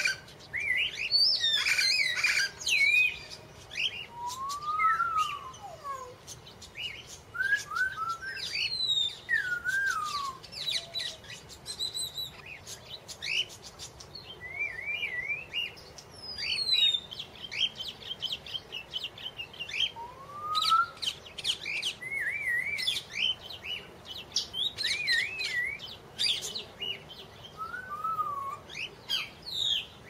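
Several birds chirping and singing, with quick whistled notes that rise, fall and waver, often overlapping one another.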